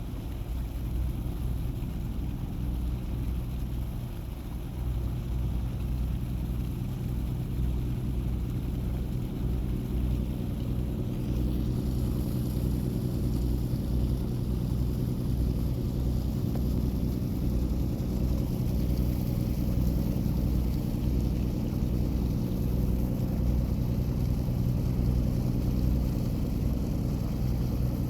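Car ferry Taiko's diesel engines running steadily, a low throbbing hum with a few steady low tones, growing slightly louder after about twelve seconds as the ship gets under way.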